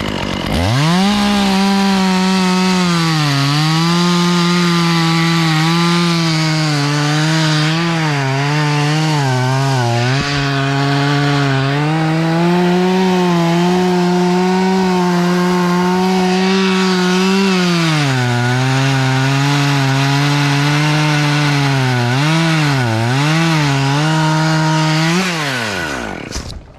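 Gas chainsaw running at high revs and cutting wood, its pitch dipping again and again as the chain bogs down in the cut and recovering as it frees. The engine winds down and stops near the end.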